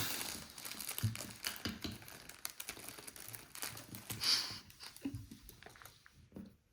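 Hands rummaging through plastic Lego parts bags and loose bricks: crinkling plastic with scattered small clicks of bricks, busiest in the first couple of seconds and with a short sharper rustle about four seconds in.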